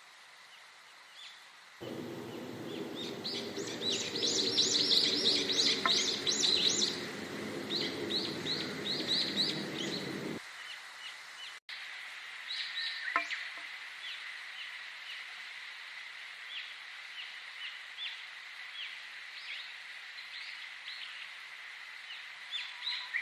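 A chorus of small birds chirping and singing, with rapid runs of short high notes, busiest for the first several seconds. A low steady hum-like layer cuts in abruptly about two seconds in and drops out just as abruptly around ten seconds, the mark of spliced recordings.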